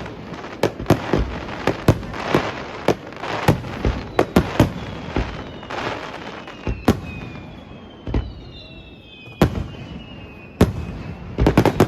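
Fireworks going off: a rapid, irregular string of sharp bangs with crackle, thinning out about halfway, with faint falling whistles, then a fresh cluster of bangs near the end.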